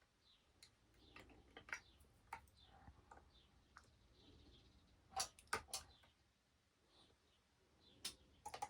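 Sharp clicks and snaps from spot-welding 18650 lithium-ion cells, with a group of three about five seconds in and a quick run of several near the end, over near-silent room tone.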